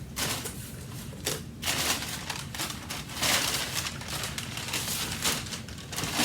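A cardboard shipping box being opened by hand: irregular crinkling, tearing and rustling of cardboard and packing material, loudest about two seconds in and again from about three seconds on.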